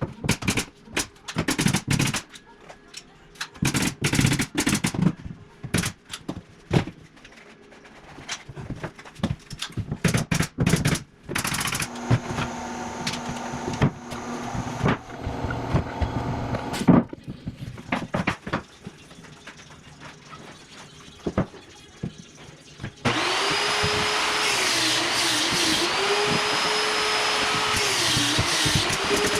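Irregular sharp knocks and clicks of tool work, then, near the end, an electric power tool's motor running loud and steady, its pitch dipping and recovering several times as it takes load.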